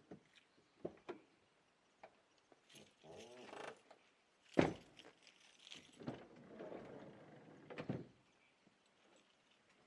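A series of small knocks, clicks and rustles from objects being handled, with the sharpest knock about halfway through.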